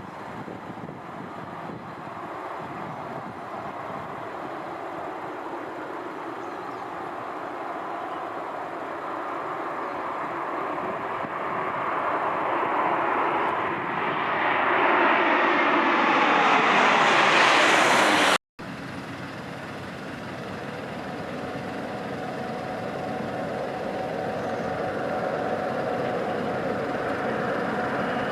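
Airliner on landing approach, its engine noise growing steadily louder to a peak with falling tones as it passes close. The sound breaks off suddenly, and a second approaching aircraft then builds up slowly with a steady whine.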